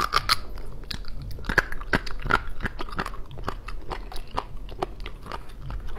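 Prepared jellyfish strips being bitten and chewed close to a lapel microphone: a dense, irregular run of sharp crunching clicks.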